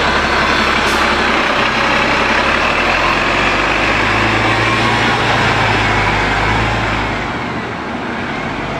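Road traffic led by a heavy vehicle's engine running close by, its low note shifting, then fading about seven seconds in.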